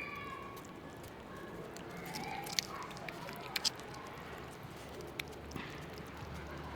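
Stray cat meowing faintly, with a few sharp clicks about halfway through.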